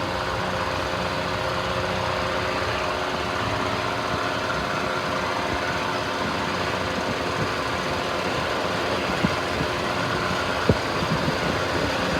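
RHN diesel railcar's engine running steadily, with the rumble and vibration of the car around it. A few sharp knocks come near the end.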